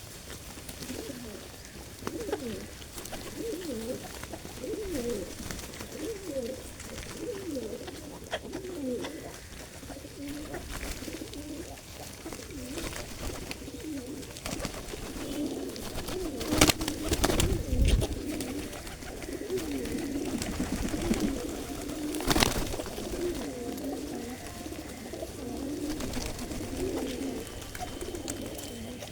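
Pigeons cooing, many overlapping low calls going on throughout. A few sharp clatters cut in just past halfway and again a few seconds later, the loudest sounds here.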